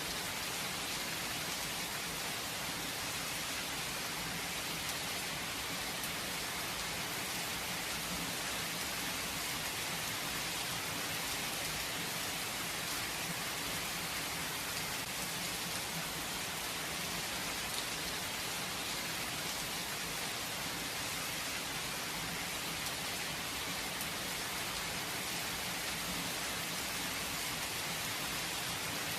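Steady rain falling, with no thunder: an even hiss of drops on surfaces.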